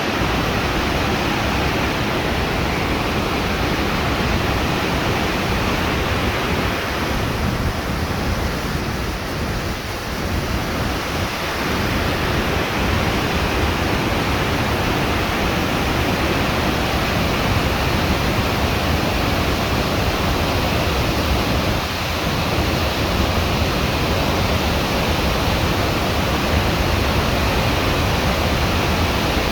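Breeze blowing on the microphone: a steady rushing noise with a heavy low rumble, easing briefly a third of the way through.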